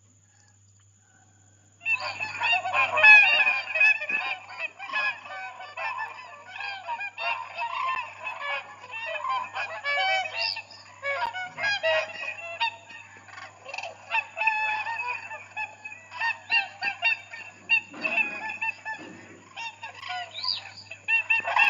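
A flock of cranes calling, many loud calls overlapping one another, starting about two seconds in.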